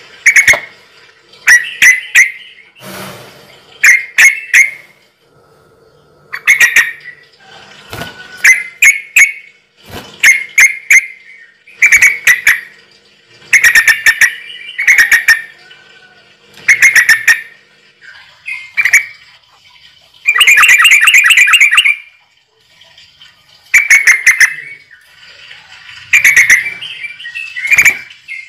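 A bird calling over and over, short loud squawking calls about every second or two, with one longer call about two-thirds of the way through.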